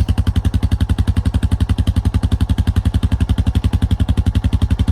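A vehicle engine running at a steady, slow speed close to the microphone, a regular chugging of about ten pulses a second. It cuts off abruptly at the very end.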